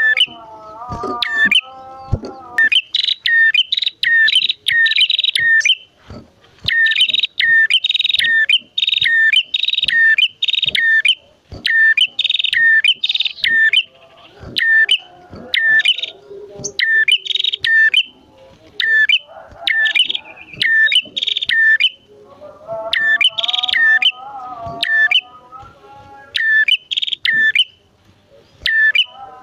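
Prenjak birds, male and female, calling: rapid series of sharp, high chirps in repeated bursts, with lower wavering notes mixed in near the start and again about three quarters of the way through.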